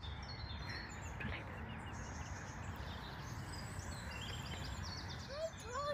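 Birds chirping and singing among the trees over a steady low rumble of outdoor noise, with a brief louder call near the end.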